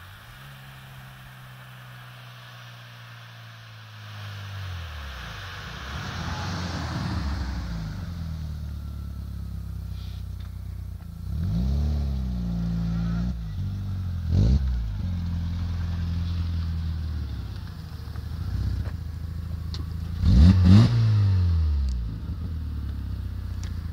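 Volkswagen Golf IV engine through a stainless steel duplex exhaust, running at idle and blipped three times, each rev rising and dropping quickly back to idle. The third rev, near the end, is the loudest.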